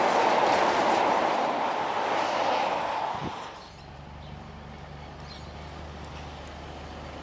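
A heavy truck going past, its loud tyre and road roar lasting about three and a half seconds, then dropping to a quieter steady low engine drone.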